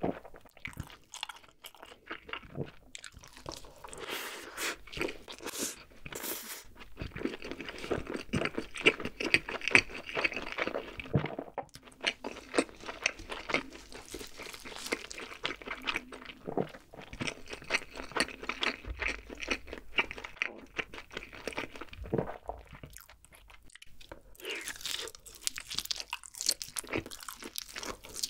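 Close-miked eating sounds: wet chewing with dense crunches and mouth clicks as a cheeseburger and a glazed grilled chicken leg are eaten. There is a short lull a few seconds before the end, then fresh bites into the chicken.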